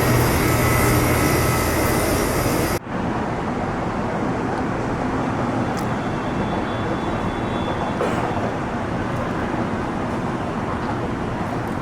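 Loud, steady vehicle and traffic noise that cuts off abruptly about three seconds in, replaced by a quieter, duller steady traffic rumble.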